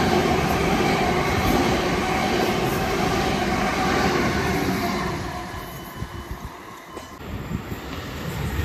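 Red suburban electric multiple unit running past the platform, a steady rumble of wheels and running gear that fades away about five seconds in. A second train's sound rises again near the end as it approaches.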